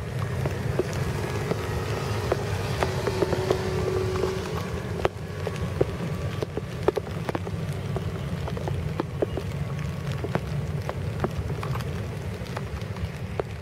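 Rain pattering, with many sharp drops striking a nearby surface, over the steady low rumble of an ATR turboprop airliner's engines at takeoff power.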